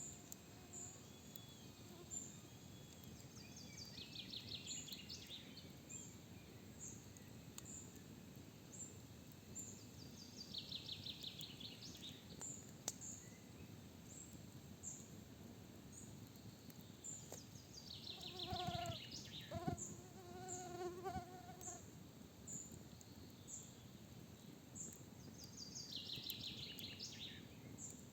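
Forest birdsong: a trilled song phrase repeated every several seconds over short high call notes about once a second. About two-thirds of the way in, a flying insect buzzes close past for a few seconds, the loudest sound here.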